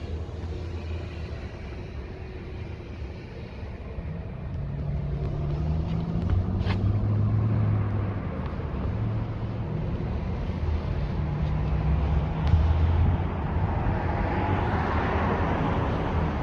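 Motor-vehicle traffic: a low engine hum with shifting tones that builds from about four seconds in, then a louder vehicle passing near the end.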